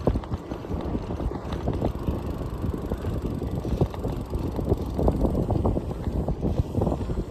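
Wind buffeting the microphone while riding a bike, a rough, gusting rumble.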